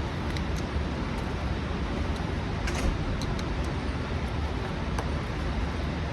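Steady low rumbling background noise, with a few faint, light clicks scattered through.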